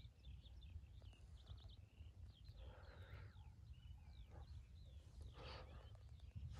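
Faint birdsong: many short chirps and whistles from small birds, over a steady low rumble. Two brief rushing noises come about three and five and a half seconds in.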